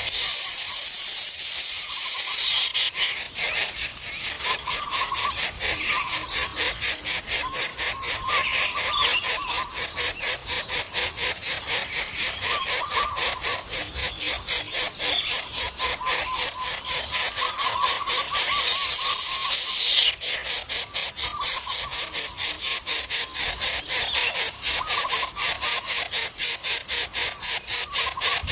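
Greater coucal nestlings calling in the nest: a rapid, rhythmic rasping hiss at about four pulses a second, with short wavering chirps running through it.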